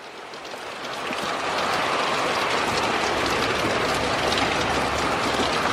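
Heavy thunderstorm rain pouring down, swelling louder over the first second or so and then holding steady as a dense, even hiss of drops.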